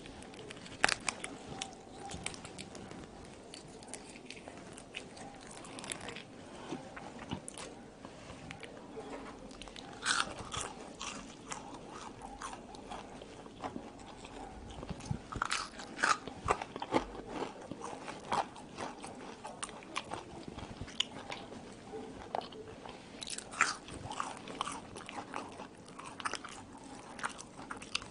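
Close-miked biting and chewing of French fries topped with ketchup and mayonnaise: irregular runs of sharp clicks and crunches from the mouth, with the busiest stretches about a third of the way in, past the middle and near the end.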